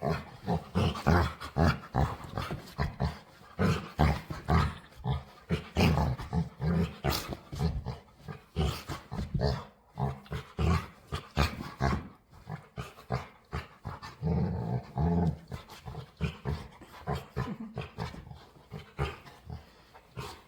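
Pet dog growling and grumbling playfully in a long run of short bursts, with a longer, drawn-out stretch about two-thirds of the way through: the noises of a dog begging to play.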